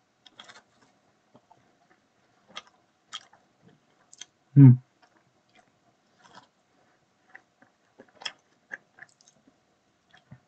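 A person chewing and biting food: scattered short, sharp crunching clicks, with one short low thump about halfway through that is the loudest sound.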